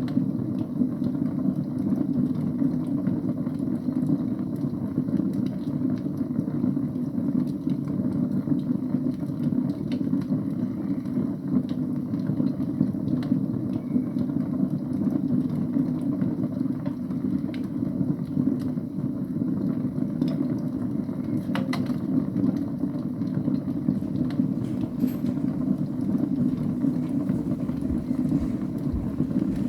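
Wood fire burning in a fireplace: a steady low rush of flames with occasional faint crackles, the plainest about two-thirds of the way through.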